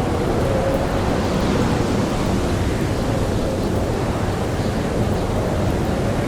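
Blizzard wind blowing steadily, a dense even roar with a faint wavering howl through it.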